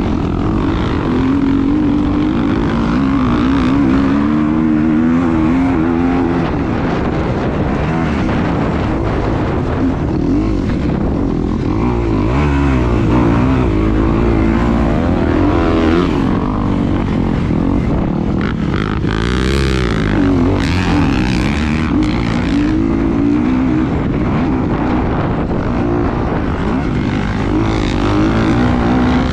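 A motor running steadily, its pitch wavering up and down, over a heavy low rumble of wind buffeting the microphone.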